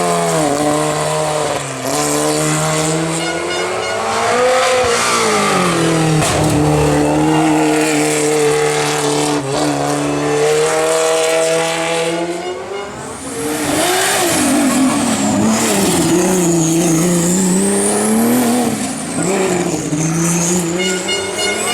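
Racing car engine at full throttle on a hillclimb, revving up and dropping back again and again through gear changes and corners, with a brief dip in level about halfway through.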